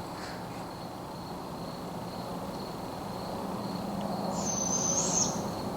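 A continuous faint high trill from an unidentified animal in the trees, over a steady outdoor background, swelling a little toward about five seconds in, with a brief higher call about four and a half seconds in.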